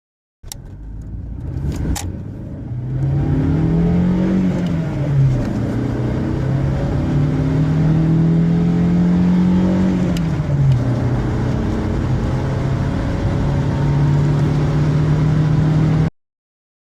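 Volkswagen Polo Mk3's inline-four engine under full-throttle acceleration, climbing in pitch through the gears with two upshifts, the revs falling sharply at each change. Two sharp clicks come just after the start, and the sound cuts off abruptly near the end.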